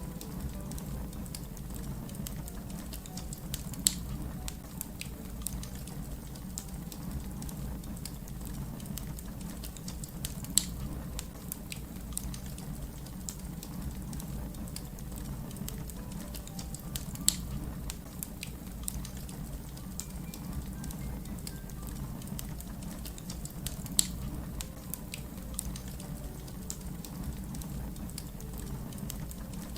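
Wood fire crackling over a steady low rumble, with many small snaps and a louder pop about every seven seconds, four in all.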